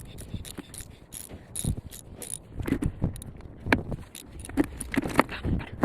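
Irregular metallic clicks and clinks of hand tools being worked and handled under a pickup truck during an oil change.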